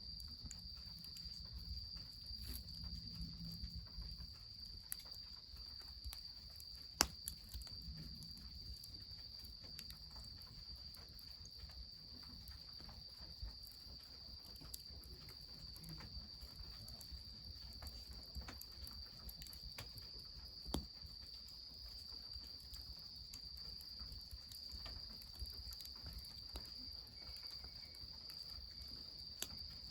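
Insects trilling steadily in one high unbroken note, with scattered sharp pops and crackles from a wood fire, two of them louder, about a quarter and two-thirds of the way through, over a faint low rumble.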